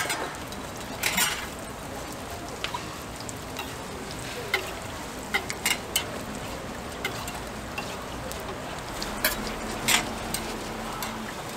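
Hotteok (Korean filled pancakes) frying in shallow oil on a flat steel griddle: a steady sizzle, with scattered sharp clicks and scrapes of a metal spatula against the griddle.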